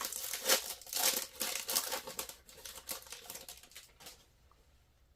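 Trading card pack wrapper being torn open and crinkled, a dense run of crackles that dies away about four seconds in.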